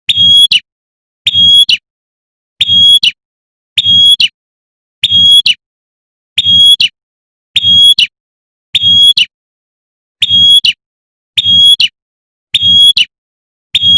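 Female prenjak (prinia) giving its call to draw a male, the same short, high-pitched call repeated about once every 1.2 seconds, about a dozen times, with a faint low hum under each call.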